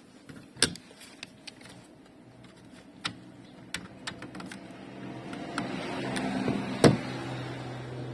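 Sharp clicks and knocks from work on a car's sunroof mechanism, then a whirring that builds and ends in a loud clack near the end.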